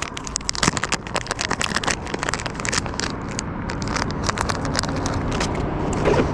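Rapid plastic crinkling and clicking from a fishing lure's package being handled, dense for the first few seconds and then thinning, over a steady low rumble of road traffic.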